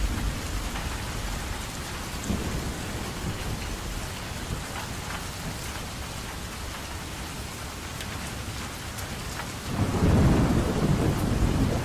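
Steady rain falling, with low rumbles of thunder; a louder roll of thunder swells near the end.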